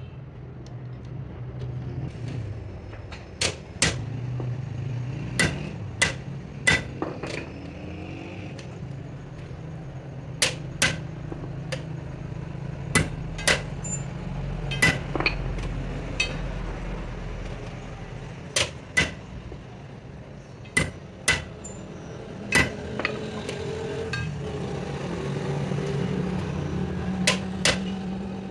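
Hammer blows on metal, struck in quick groups of two to four every few seconds, each ringing briefly. A steady low hum runs underneath.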